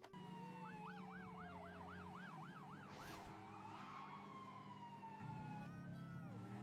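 Emergency-vehicle siren: a fast yelp rising and falling about three times a second, then slower falling wails, over a steady low hum.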